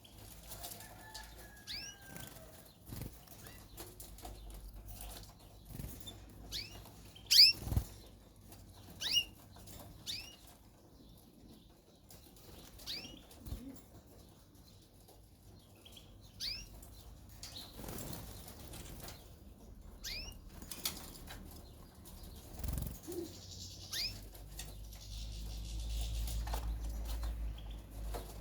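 Caged white canaries fluttering and hopping, with scattered short chirp calls and light clicks and rustles. A sharp knock stands out about seven seconds in, and a low hum rises near the end.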